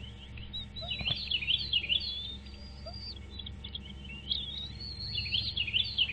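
Birds chirping: quick, high-pitched chirps bunched in two bouts, one about a second in and another from about four seconds on, over a steady low hum.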